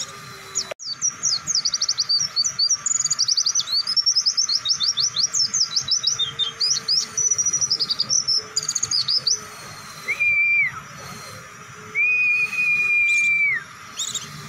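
White-eye (pleci) singing a long, fast run of high chirping notes for about nine seconds, then two long, level whistled notes, the second held longer.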